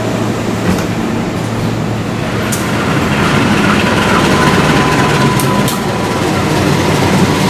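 A train running through the station, its wheels clicking sharply a few times over the rail joints, with a faint steady high tone joining about halfway through.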